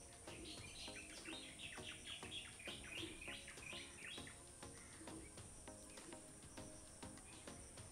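Faint bird chirping: a quick run of short, high chirps over the first four seconds or so, then fading.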